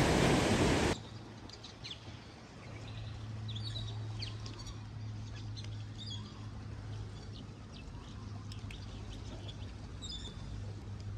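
A loud rushing noise that cuts off abruptly about a second in, followed by small birds chirping on and off over a steady low hum.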